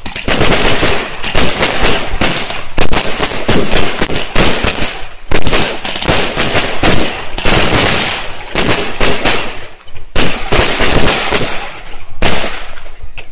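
Fireworks bursting close by in a rapid barrage of dense, overlapping bangs and crackling, with a few brief lulls.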